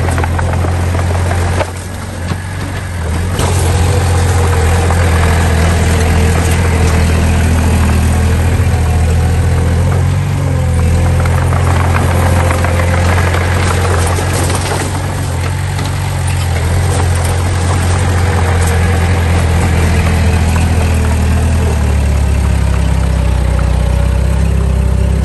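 Diesel engine of a heavy earthmoving machine running steadily with a deep hum, dropping briefly about two seconds in.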